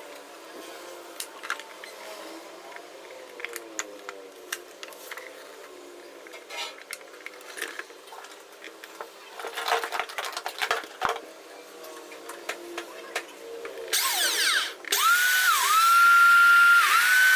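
Scattered clicks and knocks of handling, then about fourteen seconds in a vacuum cleaner motor is switched on: a loud rush of air with a whine that climbs quickly to a steady high pitch, dips once and climbs back. This is the repaired motor running.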